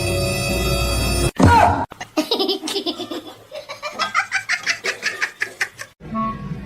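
Music that stops abruptly about a second in, followed by a loud, short sound that falls in pitch. Then comes about four seconds of high, rapid laughter, and the music starts again near the end.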